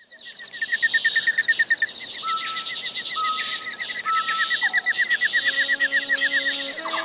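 Birdsong with fast, repeating chirps and trills, fading in at the start. Soft held musical notes join from about two seconds in, with lower notes building toward the end as music enters.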